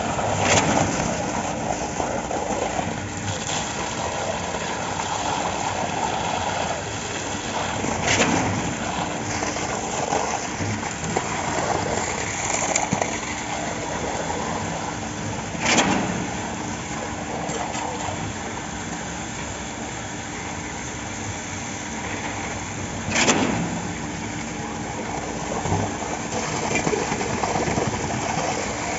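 Construction machinery engine running steadily during a concrete slab pour, with a low steady hum and a sharp loud clunk about every seven or eight seconds, three times in all.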